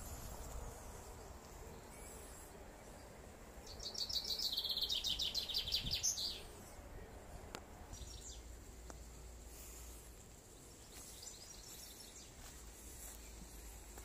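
A songbird singing a fast trilled phrase of about two and a half seconds a few seconds in, then a fainter phrase near the end, over a low steady rumble.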